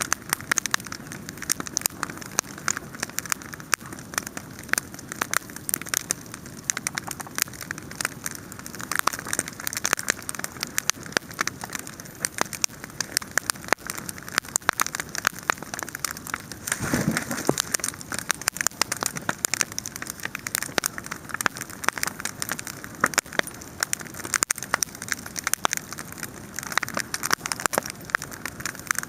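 Wood fire crackling, with a dense, steady run of pops and snaps; a brief low rush swells up about 17 seconds in.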